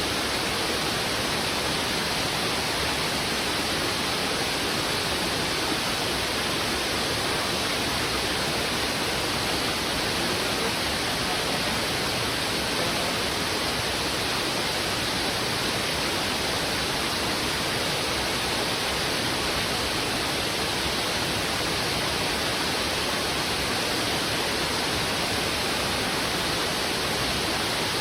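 Heavy river water rushing over rocks in a steady, unbroken wash of noise.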